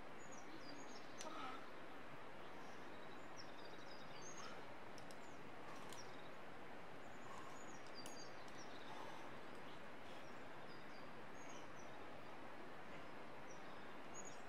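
Small birds chirping, many short high calls scattered throughout, over a steady background hiss, with a few faint clicks.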